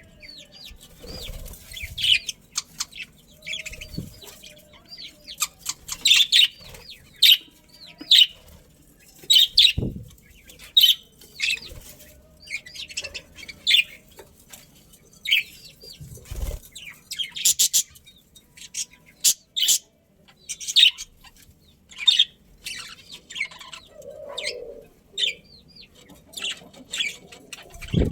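Budgerigars chirping in many short, high calls, with a few low thumps in between.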